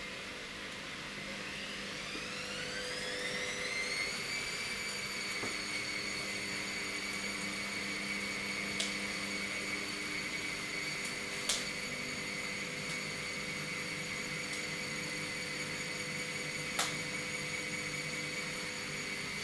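A small motor spinning up: a whine rises in pitch over about two seconds, then holds as a steady high whine over a low hum, with three short clicks later on.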